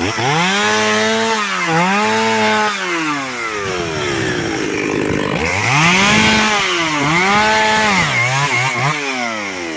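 Two-stroke chainsaw cutting firewood logs. The engine revs high twice in the first half, dipping briefly in between, then falls back to a low idle. It revs up twice more about halfway through and gives a few quick blips of the throttle near the end.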